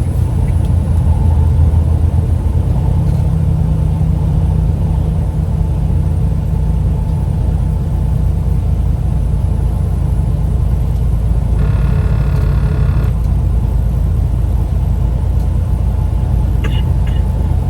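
Steady low rumble of a car running, with a brief higher-pitched sound lasting about a second and a half roughly two-thirds of the way through.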